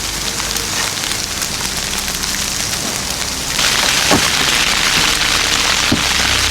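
Steady hiss of heavy precipitation pattering on a surface, which gets suddenly louder about three and a half seconds in.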